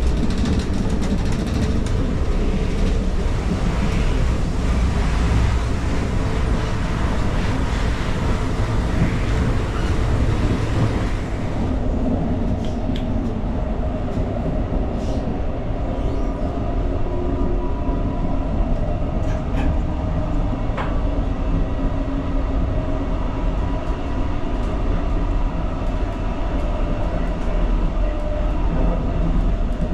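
Brightline passenger train running, heard from inside the car: a steady low rumble with a rushing hiss of rolling noise. About twelve seconds in, the hiss drops away abruptly and the sound turns duller, with a few light clicks after.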